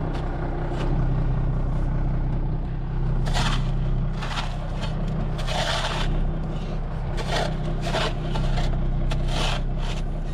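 Snow being scraped off a truck bed in a series of separate scrapes, roughly one a second, starting about three seconds in, over an engine idling steadily.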